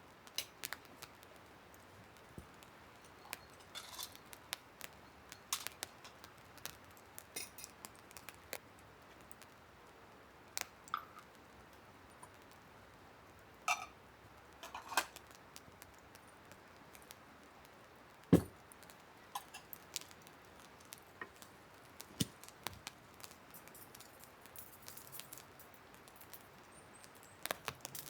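Scattered small clicks, taps and clinks of camping cookware and gear being handled while a coffee is set up on an alcohol stove, with one louder knock about 18 seconds in, over a faint steady hiss.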